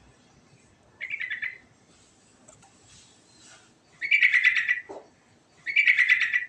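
Yellow-vented bulbul (trucukan) singing its rolling song: three quick bubbling phrases of rapid notes, the first short and the last two longer and louder.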